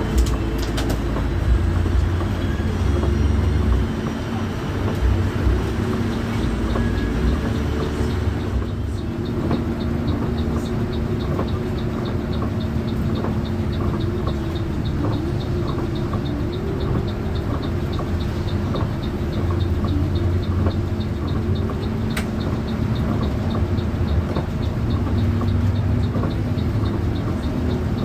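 Moving bus, its engine drone and road noise running steadily. From about nine seconds in, a light regular tick sounds about twice a second.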